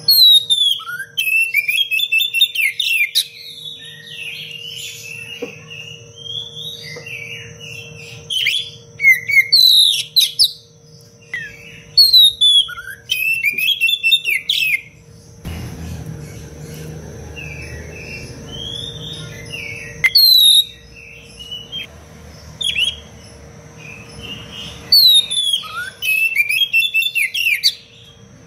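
Oriental magpie-robin singing in repeated bursts of fast, dense, varied whistled phrases, with short pauses between the bursts.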